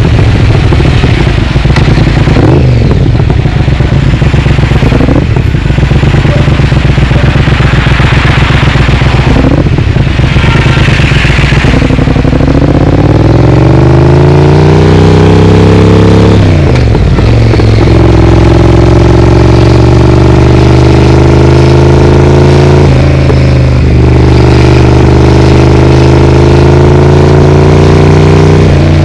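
Loud exhaust note of a Triumph Speed Twin parallel-twin engine breathing through a Vance & Hines aftermarket exhaust while riding. The engine pulls through the gears with short dips in the note at each shift, rises in pitch for a few seconds about halfway through, then holds steady at cruising speed.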